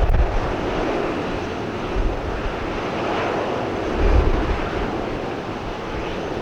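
Boeing 737-800 jet engines running, a steady noisy roar, with strong wind gusting on the microphone.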